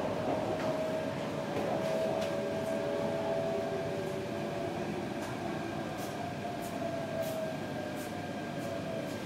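Interior of an MTR Tung Chung Line K-stock train running between stations: a steady rumble of the car with a whine held on one pitch throughout, and a few faint ticks in the second half.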